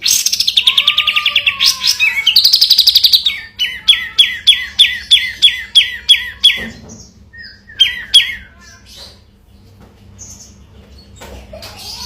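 Sooty-headed bulbul (kapas tembak) singing. It opens with a fast rattling trill of about three seconds, then gives a run of about ten quick downslurred notes at about three a second, two more a second later, and then goes quieter.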